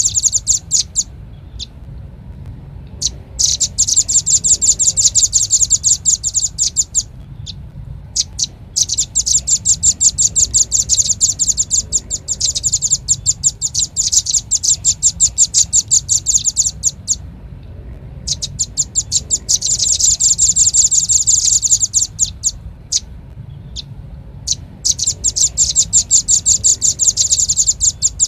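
Velvet-fronted nuthatch call, played as a bird-trapping lure: rapid, high, chattering trills of repeated notes, in bursts a few seconds long with short pauses between, over a faint low hum.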